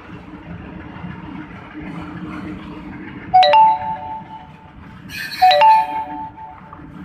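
A two-note chime sounding twice, about two seconds apart, each a short low note stepping up to a higher one, over a steady low rumble.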